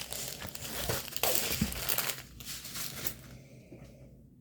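Packaging crinkling and rustling as it is handled and opened, for about three seconds, then dying away.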